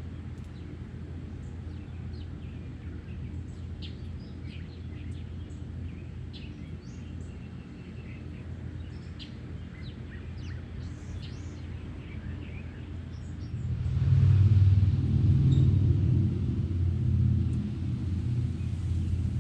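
Small songbirds chirping with many short, high calls over a steady low rumble. About two-thirds through, the rumble grows much louder and the chirps fade under it.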